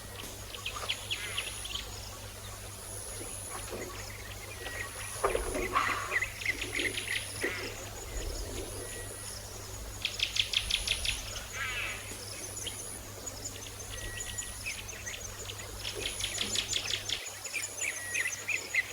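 Budgerigar chattering: bursts of quick chirps and raspy warbling, loudest in two spells in the middle. A faint thin high tone comes and goes every couple of seconds behind it.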